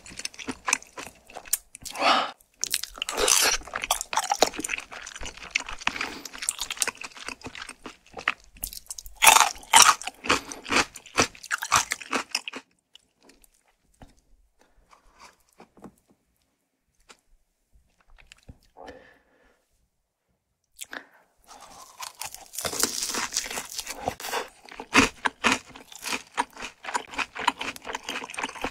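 Close-miked chewing and loud crisp crunching of fried food for about the first twelve seconds, then a long near-silent pause. About twenty-two seconds in, crunching starts again as a piece of seasoned boneless fried chicken is bitten and chewed.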